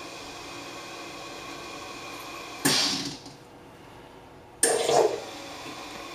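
Carimali Gusto automatic coffee machine running its milk-foamer cleaning cycle: a steady machine hum, broken twice, about two and a half and four and a half seconds in, by sudden spurts that fade within about a second as the machine intermittently pushes cleaning solution through the foaming device and out of the milk outlet.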